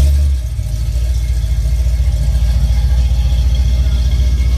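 A car engine idling close by: a loud, low, steady rumble.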